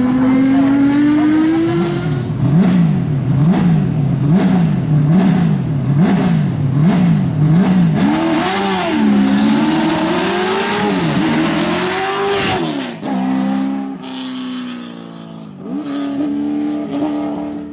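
A race car's engine revved up and down over and over at the start line, then launched hard and accelerating away with rising pitch and a rush of noise. After a sudden break, another race car's engine runs at fairly steady revs.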